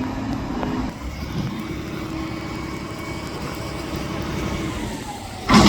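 Mack McNeilus front-loader garbage truck's diesel engine running steadily with a low drone and a held hum, then a loud bang near the end.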